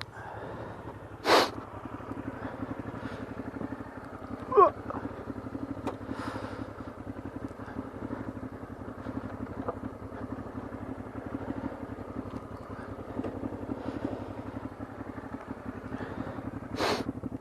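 Honda Transalp 600's V-twin engine running steadily. A sharp knock comes about a second in and another near the end, and a short wavering squeak about four and a half seconds in.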